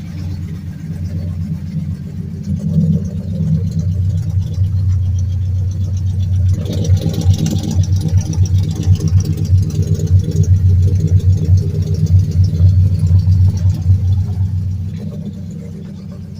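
2003 Mercury Grand Marquis's swapped 5.4-litre V8 running through long-tube headers and a full exhaust, getting louder and choppier from about six seconds in and easing back near the end; the owner says this engine has rod knock.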